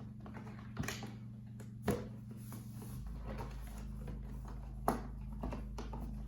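Prop pieces and packaging being handled: a few sharp knocks, about 1, 2 and 5 seconds in, amid light rustling, over a steady low hum that gets deeper and stronger about 3 seconds in.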